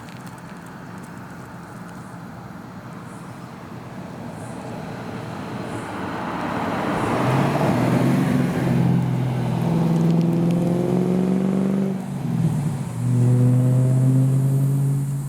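Ford Falcon XR8's Boss 260 V8 engine, quiet at first and growing steadily louder over several seconds, then running loud at fairly steady revs. The sound briefly drops about twelve seconds in and comes back loud.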